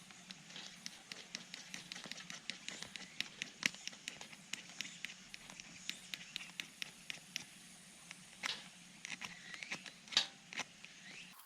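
Irregular small clicks and snaps, a few louder ones about a second in, later on and near the end, over a faint steady low hum; the sound changes abruptly just before the end.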